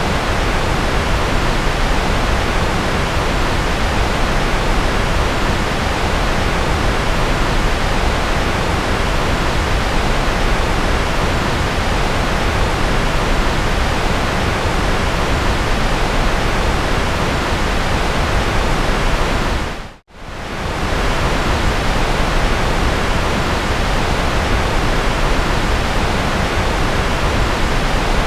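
Steady synthetic white noise: an even, unchanging hiss. About twenty seconds in it drops briefly to silence and fades straight back up.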